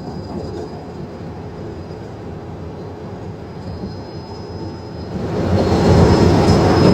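Cockpit noise of an Airbus A330-200F on short final: a steady rush of airflow and engine sound that grows markedly louder about five seconds in.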